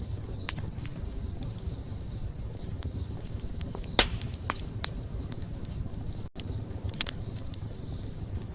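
Wood campfire burning with a steady low rumble of flames and scattered sharp crackles and pops from the logs; the loudest pop is about four seconds in.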